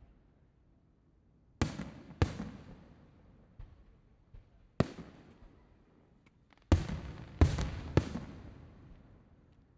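Aerial fireworks shells bursting: six sharp booms, each trailing off in a rolling echo. Two come close together about two seconds in, one near the middle, and three in quick succession near the end, with a few faint pops between.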